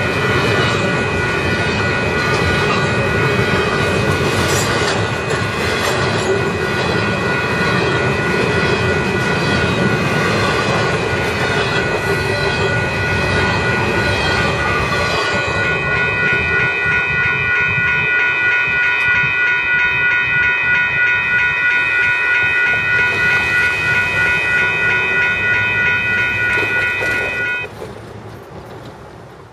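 A double-stack intermodal freight train's container cars rolling past, wheels clacking over the rail joints, while the grade-crossing bell rings steadily. The rail noise fades as the end of the train passes, and the bell stops near the end.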